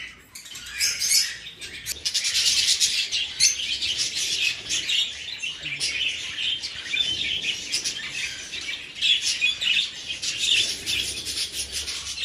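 A flock of budgerigars chirping constantly, many calls overlapping, the chatter thickening about two seconds in.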